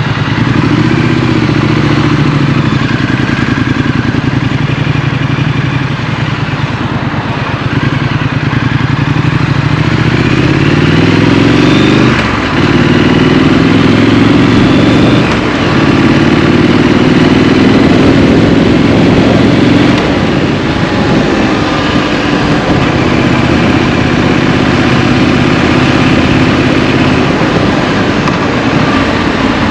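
Triumph Street Scrambler's parallel-twin engine heard from the rider's seat as it accelerates through city traffic. The note climbs in pitch in each gear and dips briefly at gear changes about twelve and fifteen seconds in, then settles to a steadier cruise.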